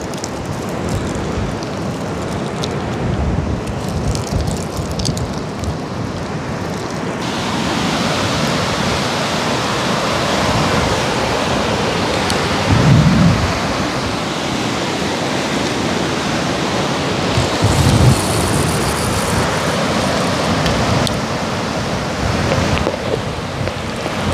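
Heavy storm rain with wind on the microphone, a steady loud hiss that grows fuller and heavier about seven seconds in. Two louder low rumbles stand out partway through.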